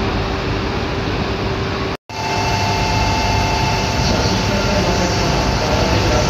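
Shinkansen platform ambience with a steady hum, then a Yamagata Shinkansen train moving slowly along the platform. Its steady running noise carries a high-pitched whine.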